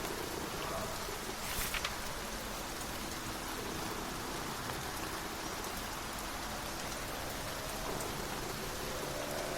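Steady rain falling, an even hiss of drops. A brief crackling cluster comes about a second and a half in, and a faint low tone fades in near the end.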